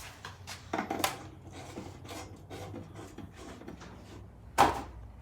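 Scraping and clicking handling noises with a low steady hum underneath, and one sharp knock about four and a half seconds in.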